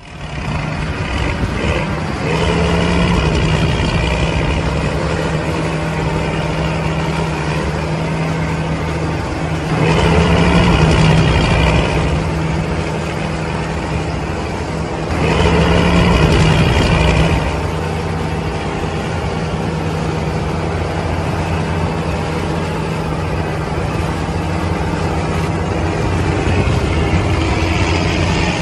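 Tractor engine sound running steadily, swelling louder three times: about two seconds in, about ten seconds in and about fifteen seconds in.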